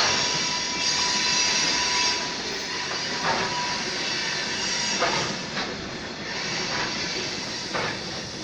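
A train running, with a steady rushing noise. A faint steady whine fades out a few seconds in, and short squeaks or creaks come several times.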